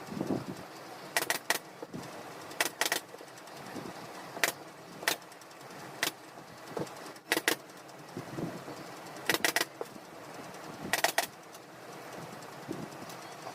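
Upholstery staple gun firing: sharp clicks, often two or three in quick succession, every second or two.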